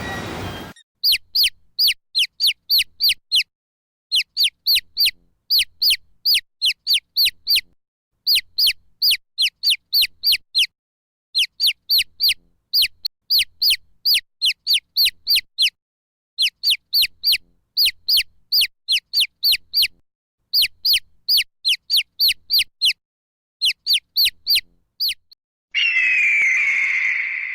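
A bird calling in repeated bursts of short, high, down-slurred notes, six to eight quick notes in each burst with short pauses between. Near the end a different, steadier bird call takes over.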